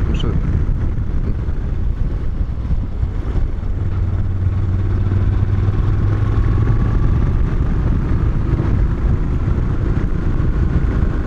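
Moto Guzzi motorcycle engine running at a steady road speed under a heavy low rumble of wind and road noise. A steady engine hum stands out for a few seconds in the middle.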